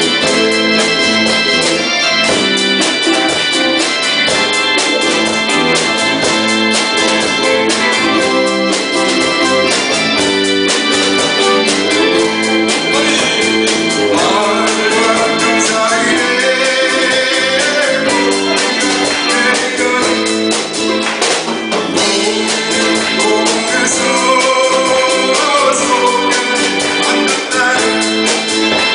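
Live band playing a 1970s–80s-style Korean pop song, with an electronic organ keyboard to the fore over a steady drum beat and a melody line that swells in the middle and again near the end.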